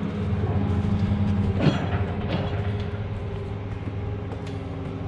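Tractor engine running steadily, with a couple of short metal clanks about two seconds in.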